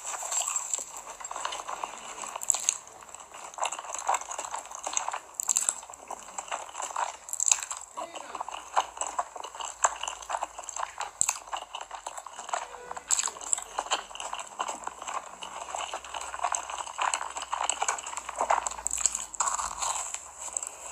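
Close-miked biting and chewing of a sugar-coated, batter-fried corn dog: a dense, irregular run of crisp crunches and wet mouth sounds.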